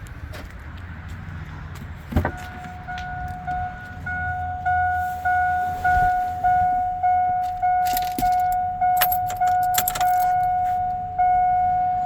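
A 2002 Chevrolet Silverado's in-cab warning chime: a click about two seconds in, then a steady ding repeating about every 0.6 s, the kind of chime a key left in the ignition or an open door sets off. Keys rattle around eight to ten seconds in, over a low hum.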